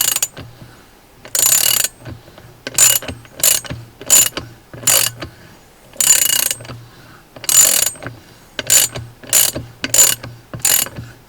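ASH LVR3180 3/8-inch-drive ratchet handle, with a 72-tooth, two-pawl mechanism, clicking as it is swung back again and again: about a dozen short bursts of rapid ratcheting with short pauses between them. The swings grow shorter and come faster toward the end.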